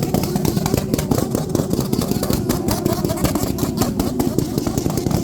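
Motorcycle engine running steadily, with a rapid, even pulsing.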